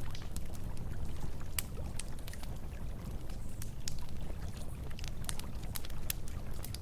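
Campfire wood crackling with irregular sharp pops, over the steady rush of flowing river water.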